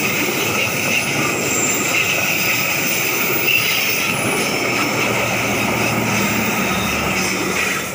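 Passenger train's stainless-steel coaches rolling past at close range on a curve, with a steady rumble and clatter of wheels and a high squeal of wheel flanges against the curved rail. A low hum comes in near the end as the power car goes by, and the noise falls away just before the end as the tail of the train passes.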